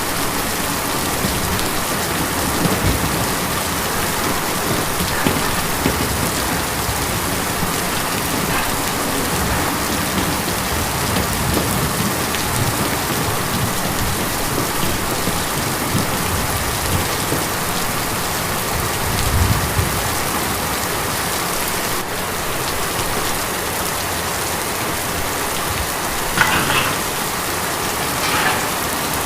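Steady heavy rain drumming on a tin roof, a dense even patter of drops. A brief low rumble swells about two-thirds through, and two louder drop hits land near the end.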